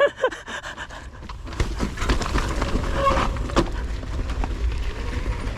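A person panting, with a low rumble, like wind or handling on the microphone, setting in about a second and a half in, and scattered light clicks and rustles.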